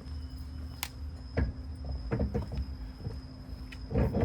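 A handful of separate knocks and clanks of tools and wheel parts being handled, the loudest a thump near the end, over a steady hum.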